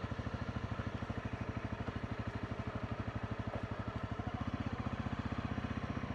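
Motorcycle engine running at low revs with an even, rapid beat.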